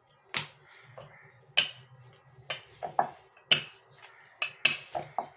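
Rolling pin clicking and knocking against the rolling board as a stack of layered dough rounds is rolled out thin: sharp, irregular knocks about once or twice a second.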